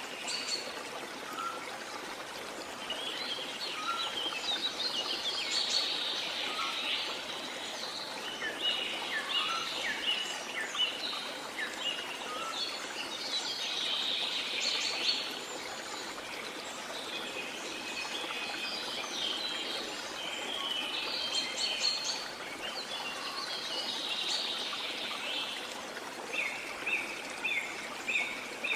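Steady rush of a waterfall with many birds chirping and calling over it in clusters of quick notes, and a run of short repeated chirps near the end.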